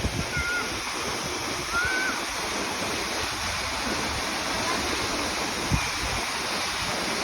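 A waterfall's steady rush of falling water. A few short high chirps come in the first two seconds, and a brief low bump sounds near the end.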